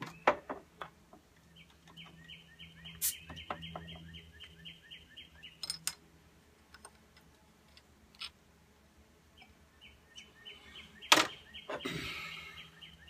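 A wild bird calling in rapid runs of high chirps, about five a second, twice for several seconds each. Glass and a bottle clink against a tiled tabletop, and about eleven seconds in a sharp snap followed by a short hiss as a beer bottle's cap is pried off.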